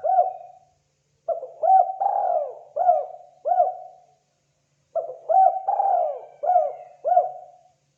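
Spotted dove (terkukur) cooing: repeated phrases of about five low hooting coos each, one phrase trailing off just after the start and two more full phrases following with short pauses between.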